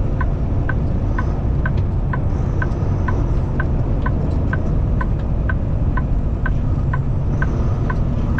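Steady low rumble of the Kenworth T680's engine and road noise inside the cab. Over it, the turn signal clicks evenly about two and a half times a second, as the truck signals to exit the interstate.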